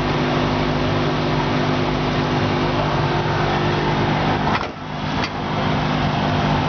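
Steady machine hum with a dense hiss in a food truck kitchen, where a deep fryer is cooking. The sound dips briefly a little before the five-second mark.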